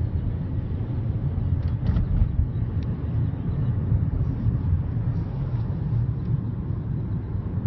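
A steady low rumble, with a few faint short high calls from the flock of blackbirds about two and three seconds in.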